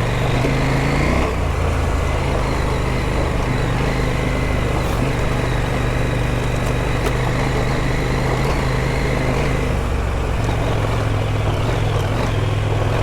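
Adventure motorcycle engine running under way on a dirt trail, with wind and tyre noise; the engine note shifts about a second in and again near ten seconds.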